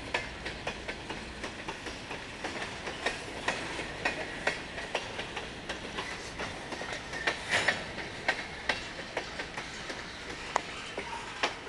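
Freight train's covered hopper cars rolling past close by: a steady rolling noise with the wheels clicking over rail joints in an uneven clickety-clack.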